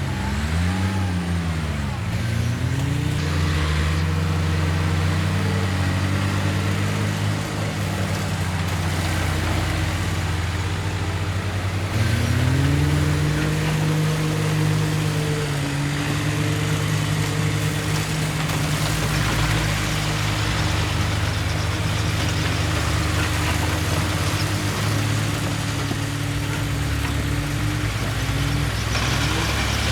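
Heavy diesel engines of earthmoving machinery running under changing load, the pitch falling and rising as they work, and stepping up and getting louder about twelve seconds in.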